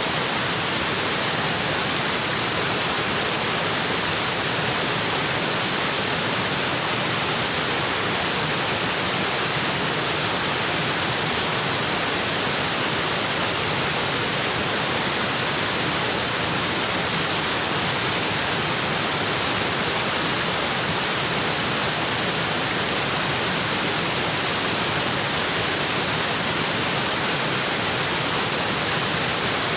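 Waterfall: water pouring steadily over rocks in a tropical forest stream, a dense, even rush of splashing water.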